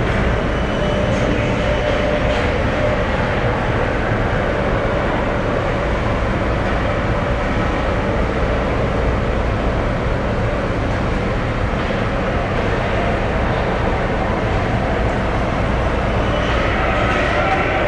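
Steady ice-arena background noise during a youth hockey game: a constant low rumble with an even wash of noise over it and no distinct impacts.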